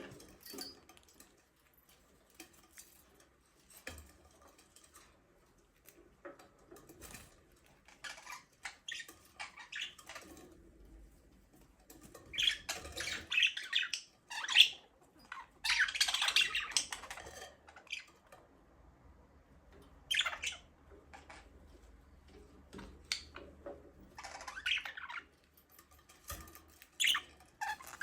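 Budgerigars chirping and squawking in irregular short bursts, loudest in two busy stretches around the middle.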